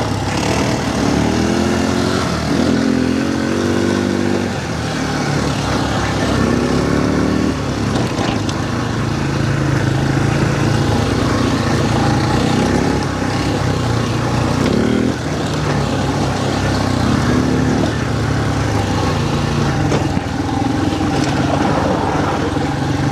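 Quad bike engine running under way, its pitch rising and falling again and again as the throttle is opened and eased.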